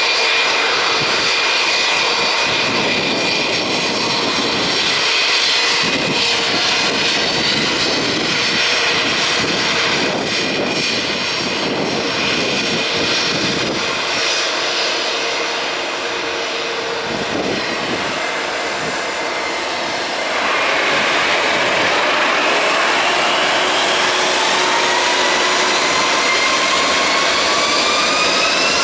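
Jet engines of an Airbus A321-211 departing, heard outdoors with a steady rush and whine. About two-thirds of the way through they grow louder, and several whines rise steadily in pitch as the engines spool up.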